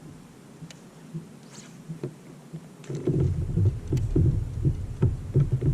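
Dull low thumps and rumbling knocks on a kayak hull, several a second, starting about three seconds in over a faint steady hum, with a few light clicks before.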